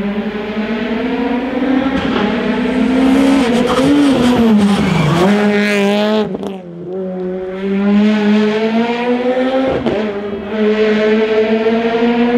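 Rally car engine at hard throttle, revs climbing and falling through gear changes. About six seconds in the throttle is lifted briefly, then the engine pulls away again.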